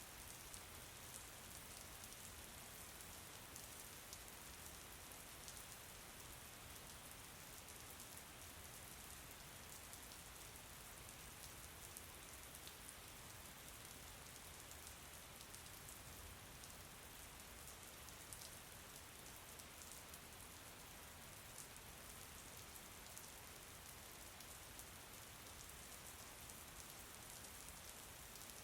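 Steady, faint rain falling, an even hiss with fine individual drops ticking through it.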